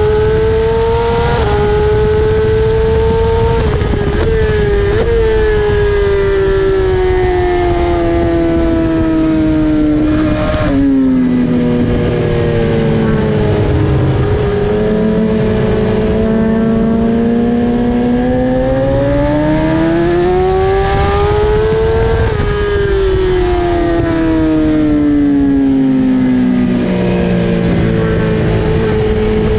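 BMW S1000RR's inline-four engine heard from onboard at track pace, its note sinking slowly for about ten seconds, dropping sharply once, then climbing and falling again with the throttle, over steady wind rush.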